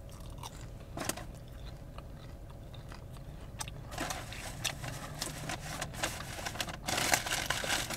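Close-up chewing of a crunchy French toast stick, starting with a bite. Scattered small crunches and clicks, with two louder stretches of crunching about four seconds in and near the end.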